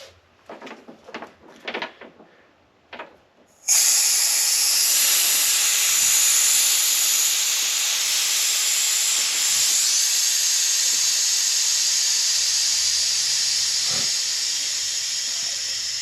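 Loud, steady hiss of gas rushing through the A/C service hoses and gauge manifold, starting suddenly about four seconds in and easing a little near the end.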